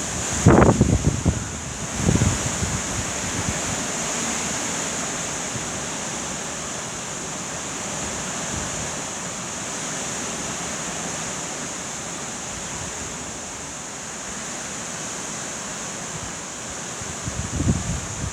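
Heavy storm rain pouring steadily, with gusts of wind buffeting the microphone about half a second and two seconds in and again near the end.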